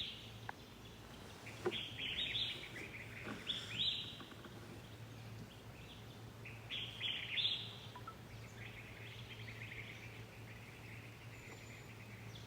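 Small birds chirping in short bursts of quick twitter every couple of seconds, over a faint steady low hum.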